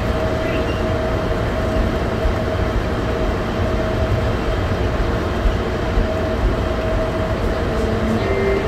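Denver airport's automated underground people-mover train running at speed through its tunnel, heard from inside the front car: a steady low rumble with a faint steady whine over it.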